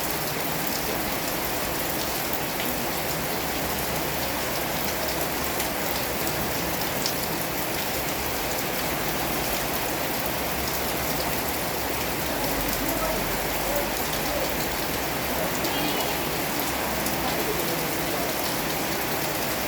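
Heavy rain falling steadily, with single drops clicking sharply now and then.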